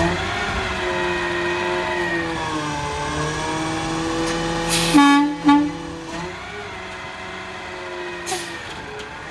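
Garbage truck engine running, its pitch rising and falling, then two short horn honks about five seconds in; afterwards the engine runs more quietly, with a brief hiss near the end.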